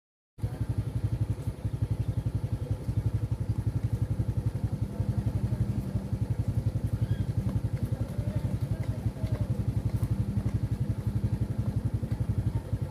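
Engine running steadily with a fast, even pulse. It starts abruptly about half a second in.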